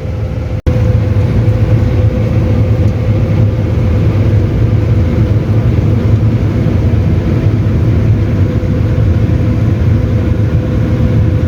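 Combine harvester running while reaping barley, heard from inside the cab: a steady low engine drone with a thin, even whine above it. There is a brief dropout just over half a second in, after which the drone comes back slightly louder.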